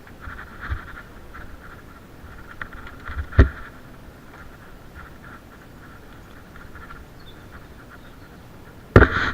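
Mountain bike jolting over a rough forest trail: a steady rattle, a sharp knock about three and a half seconds in, and a louder jolt near the end.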